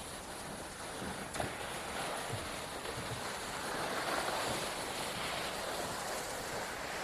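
Steady rushing wind noise on the microphone, swelling a little midway, with a faint knock about a second and a half in.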